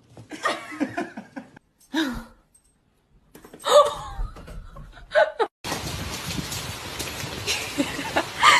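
People laughing in short bursts, broken by abrupt cuts between clips. From a little past halfway a steady hiss runs under the laughter.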